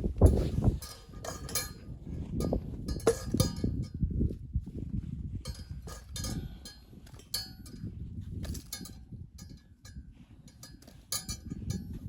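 Irregular clinks and knocks, several a second at times, over a low rumble, with a loud knock just after the start.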